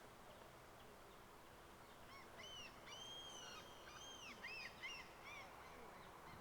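Several birds calling: a quick cluster of short, arched, high-pitched calls overlapping one another, from about two seconds in until about five and a half seconds, over faint steady outdoor hiss.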